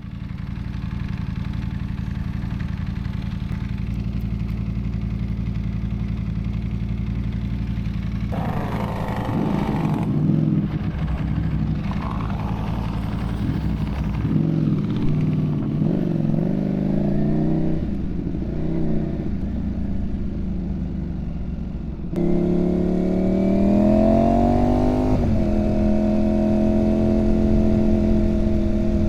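Ducati Panigale V4 motorcycle engine idling steadily, then rising and falling with the throttle from about eight seconds in as the bike moves off slowly. About 22 seconds in it revs up smoothly under acceleration and settles into a steady, louder cruise.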